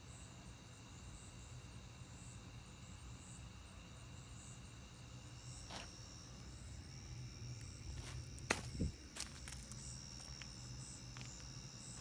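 Chorus of night insects, a steady high-pitched chirring over a low, even hum. A few sharp clicks or knocks come between about six and nine seconds in, the loudest a little past the middle.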